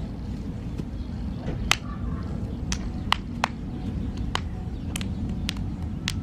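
A string of about eight sharp, irregularly spaced snaps over a steady low rumble.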